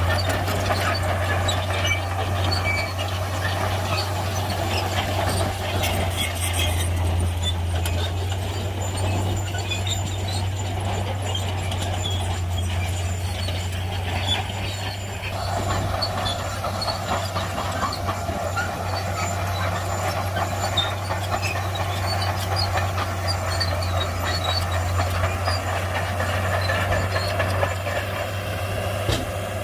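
Shantui bulldozer's diesel engine running steadily under load, with scattered metallic clanks and ticks from the tracks and blade. A higher drone from the machine grows louder about halfway through.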